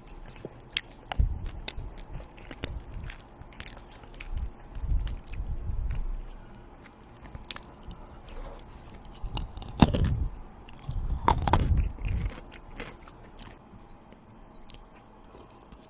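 Close-miked eating: chewing and biting with scattered crisp clicks and crunches, the loudest bites about ten and eleven and a half seconds in.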